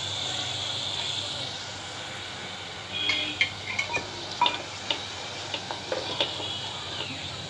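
Wet tomato and chilli puree sizzling in hot oil in an aluminium pot, a steady hiss at first. From about three seconds in, a wooden spatula stirs it, scraping and knocking against the pot in irregular clicks.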